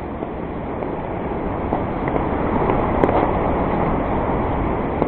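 Steady rushing of the Nantahala River's whitewater, with a few faint light taps.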